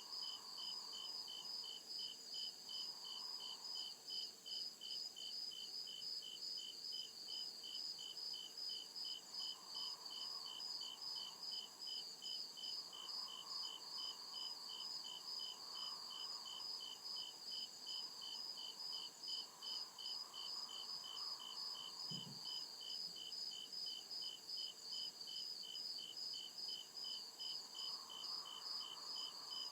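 Crickets chirping steadily in regular, rapid, evenly spaced pulses, with at least two insects calling at different pitches.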